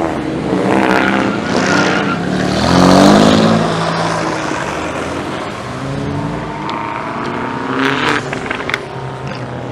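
Car engines revving hard, the pitch climbing and dropping, loudest about three seconds in.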